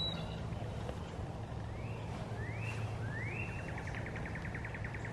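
A bird singing outdoors: three rising slurred notes, each longer than the last, starting about two seconds in and running into a fast trill, over a steady low hum.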